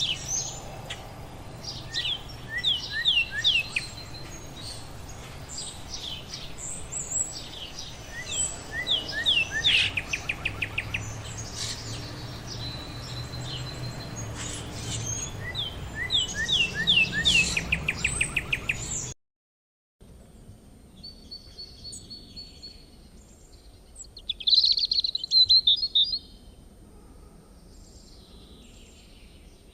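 Birds chirping and singing: many short falling chirps and quick trills from several birds. About 19 seconds in, the sound cuts out briefly and a quieter recording follows, with scattered calls and a loud burst of chattering.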